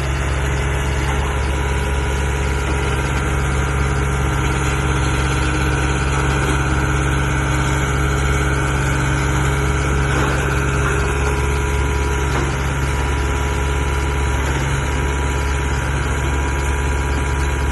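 Skid steer loader's diesel engine running steadily, with a strong low hum and a faint whine from the machinery above it.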